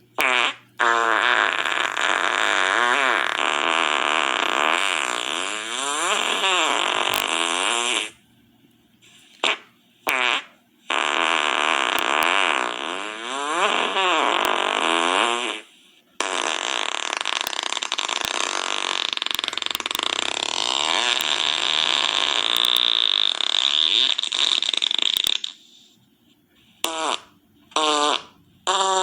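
A string of fart sounds: three long, drawn-out ones lasting several seconds each, with a buzzy pitch that wobbles up and down, and several short quick ones between them and near the end. Brief silences separate them.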